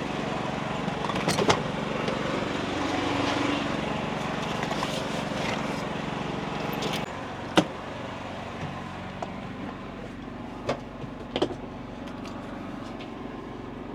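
Portable gasoline generator running steadily, just started. Its sound drops suddenly about seven seconds in, and a few sharp clicks and knocks follow.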